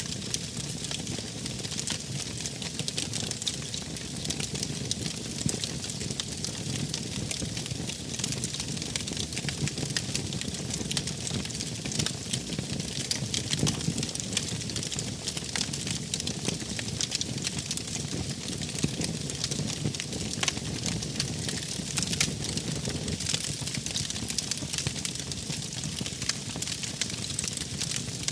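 Wood fire burning steadily: a constant low rumble of flames under many small, irregular crackles and pops.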